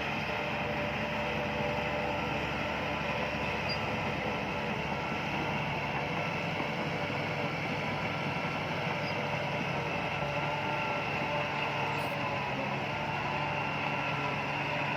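Bulldozer's diesel engine running steadily, a constant drone that holds the same pitch throughout.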